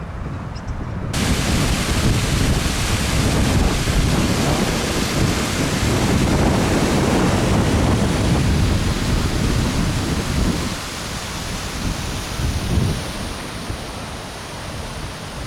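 Wind buffeting the microphone in heavy gusts, with a dense hiss of rain that comes in abruptly about a second in. The gusts ease off somewhat after about ten seconds.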